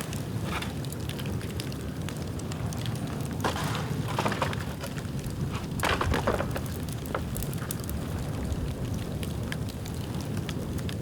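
Dead bamboo burning in an open bonfire: a steady low rumble of flames with frequent crackles and sharp pops, and short hissing flare-ups about three and a half and six seconds in.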